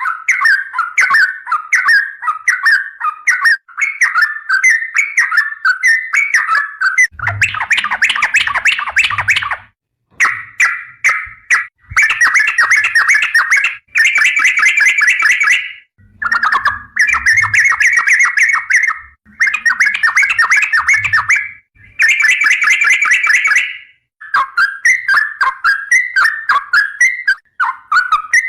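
Yellow-vented bulbul (trucukan) singing loud, rapid bubbling phrases over and over. The song breaks off abruptly into short silences several times, as in a spliced-together song compilation.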